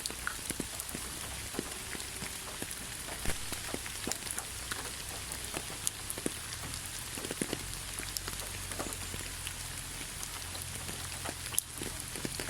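Steady rainfall, with many individual raindrops tapping close by at irregular intervals over an even hiss.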